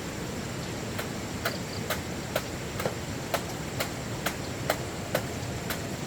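Sharp, even ticks, a little more than two a second, over a steady hiss.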